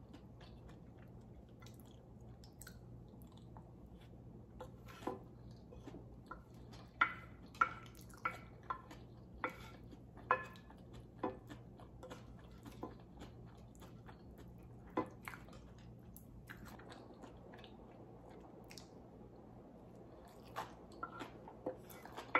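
Close-miked chewing of a mouthful of rice: soft, irregular mouth clicks and smacks. Most come in the middle stretch, then a quiet lull, then a few more near the end.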